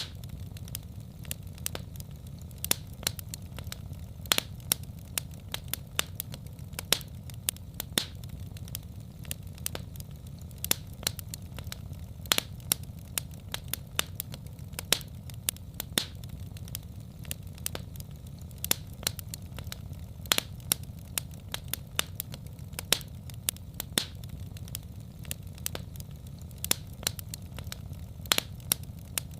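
Wood fire in a fireplace burning steadily, with a low rumble under irregular sharp crackles and pops, several a second.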